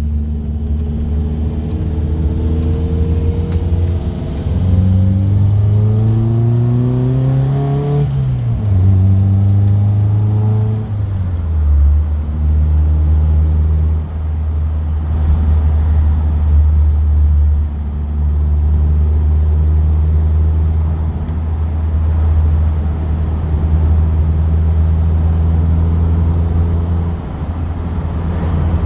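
Classic car's engine heard from inside the moving car, revs climbing twice and dropping sharply at each gear change in the first twelve seconds or so, then running steadily at cruising speed.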